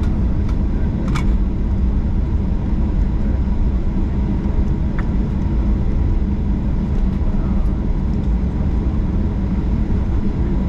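Steady low rumble of an airliner's jet engines and airframe, heard from inside the passenger cabin on the landing, with a couple of faint clicks.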